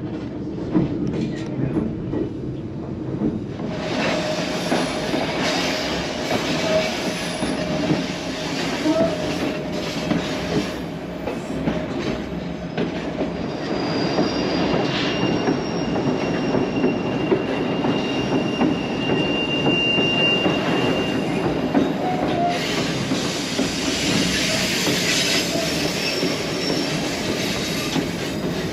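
Ride inside a White Pass & Yukon Route narrow-gauge passenger coach: a steady rumble and clatter of wheels on the rails. Thin, high wheel squeals come and go, one most clearly around the middle.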